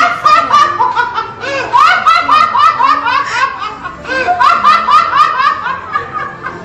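High-pitched laughter in long runs of quick repeated ha-ha syllables, with a short break about two thirds of the way through.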